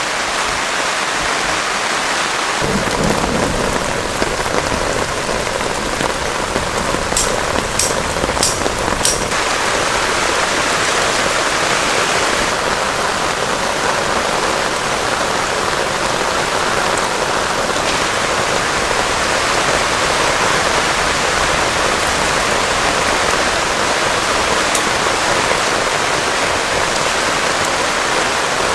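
Heavy rain pouring steadily. About two and a half seconds in, a low rumble of thunder joins it and carries on, with a few sharp ticks around eight seconds in.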